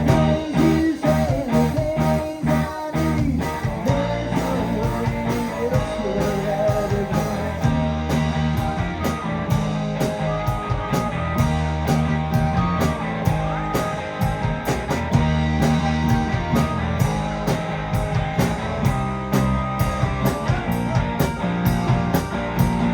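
Live rock band playing, with electric guitar, bass, drums and keyboards, mid-song. From about eight seconds in, steady cymbal strokes keep time.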